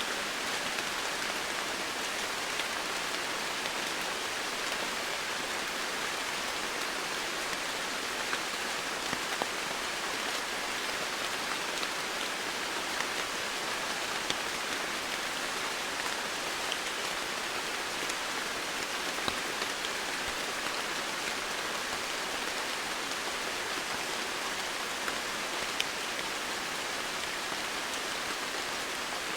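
Steady rain falling, an even hiss with scattered louder drops ticking through it.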